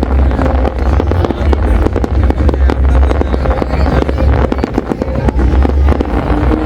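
Large aerial fireworks display going off non-stop: a dense run of sharp bangs and crackles, many each second, over a continuous deep rumble of booms.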